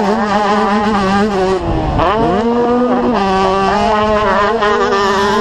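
Racing dirt-bike engines running hard, more than one engine heard at once; about two seconds in the pitch dips and climbs back up as the throttle is eased and opened again.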